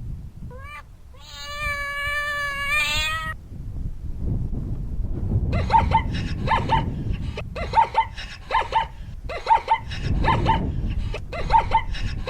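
Cat meowing: a short rising meow, then one long drawn-out meow, followed by a quick run of short, high mews repeated two or three times a second.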